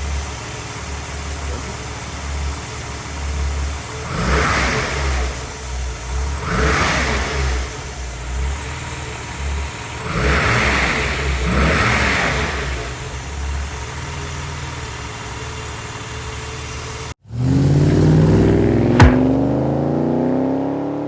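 1975 Mercedes-Benz 280 SL's inline-six engine idling and revved briefly four times, in two pairs. Near the end the engine sound cuts off abruptly and a louder sound with slowly rising tones takes over.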